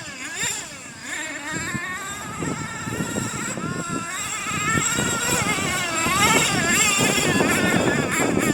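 Small two-stroke nitro glow engine of a Thunder Tiger MTA4 RC truck (the S28) running at high pitch. Its note rises and falls repeatedly as the throttle is blipped, growing louder about halfway through.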